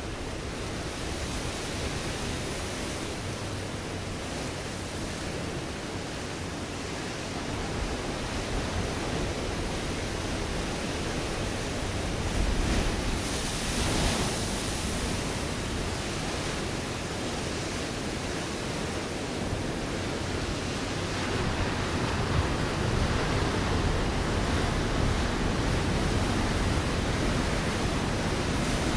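Ocean waves breaking against a rocky shore: a continuous wash of surf that swells to its loudest about halfway through and builds again in the last third.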